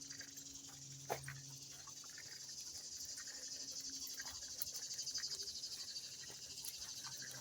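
Chorus of insects trilling: a steady, high, rapidly pulsing buzz that swells in the middle and eases off again, with a single short click about a second in.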